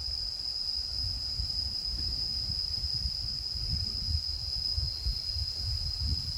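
Insects, such as crickets, chirring steadily in one high, even tone, with a low, uneven wind rumble on the microphone.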